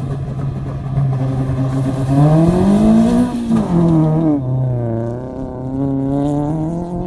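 Modified Maruti Zen rally car launching from a standstill: the engine is held at steady revs, then revs up hard, and its pitch drops twice as it shifts up, about three and a half and four and a half seconds in. It then pulls away, running steadily and growing fainter.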